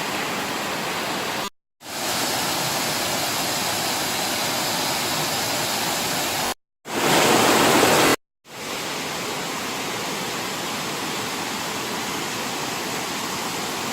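Steady rushing noise, split into four pieces by three abrupt silent gaps from edits; the short third piece is louder than the rest.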